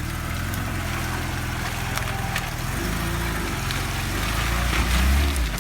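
Lada Niva engine running under load off-road, growing steadily louder toward the end, with scattered light knocks and clicks over it.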